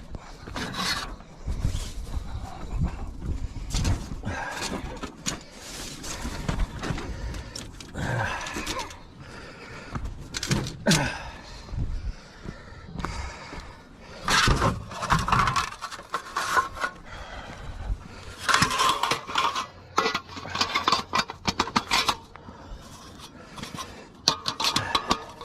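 Irregular scraping, rustling and clattering of things being handled by hand, in short bursts with brief pauses between them.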